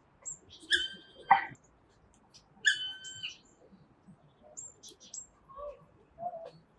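Female black woodpecker calling twice, about two seconds apart, each a short held note with a falling end on the first: its loud 'kli-ööh' call. Faint high chirps of small birds come in between.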